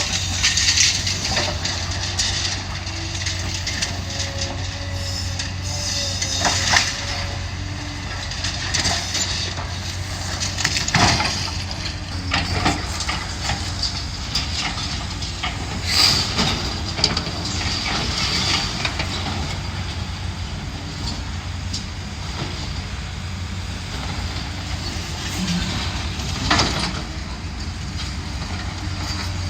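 Heavy demolition machinery at work: a diesel engine runs steadily under repeated crashes, clanks and scraping of breaking building debris, with several louder crashes.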